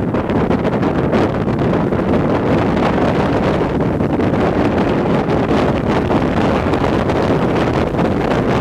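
Strong blizzard wind buffeting the microphone: a loud, steady rush of wind noise.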